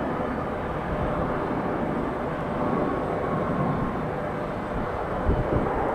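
Steady rumble of jet engines from a Boeing 757-300 landing and rolling out on the runway, with a few low bumps near the end.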